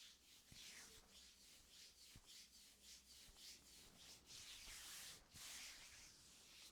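Faint hands rubbing and stroking in a massage, a run of soft brushing swishes, one after another.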